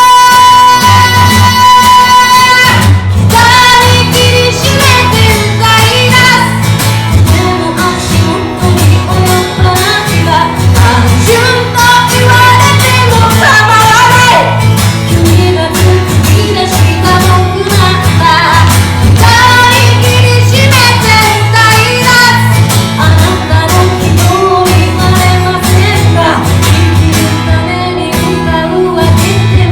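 A woman singing a ballad live to her own guitar accompaniment. A long held note opens, then the melody carries on over steady guitar.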